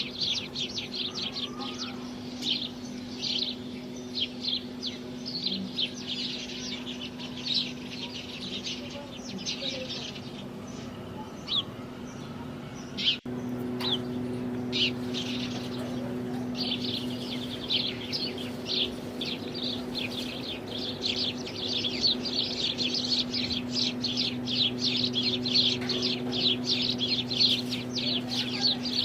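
House sparrows chirping: a dense, continuous run of short, repeated chirps, with a steady low hum underneath. There is a brief break about 13 seconds in, after which the chirping is thicker and the hum a little stronger.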